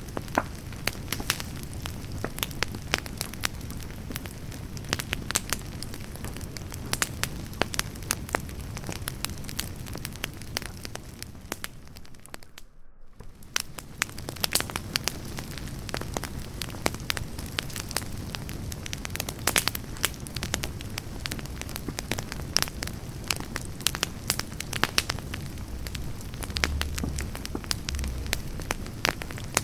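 Firewood campfire burning, crackling with frequent sharp pops and snaps over a steady low rush of flame. The sound drops out briefly about halfway through, then the crackling resumes.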